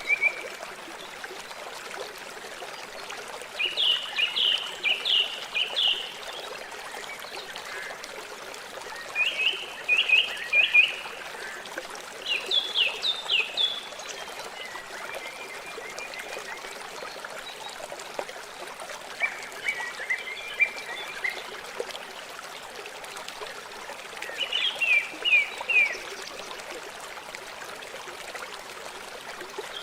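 River water flowing steadily, with a bird singing short bursts of rapid, high repeated chirps about every four to five seconds, half a dozen times; the chirps are the loudest sounds.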